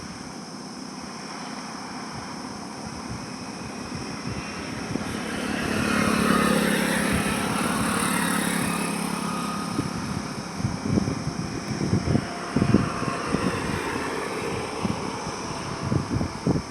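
A road vehicle passing close by: tyre and engine noise swell over a few seconds with a steady engine hum, peak about halfway through, then fade. In the last third, irregular low buffeting thumps of wind on the microphone.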